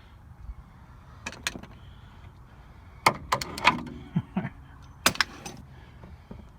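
Short sharp knocks and clicks of tools and parts being handled, coming in small clusters about a second in, about three seconds in and about five seconds in, with a few brief squeaks around the four-second mark.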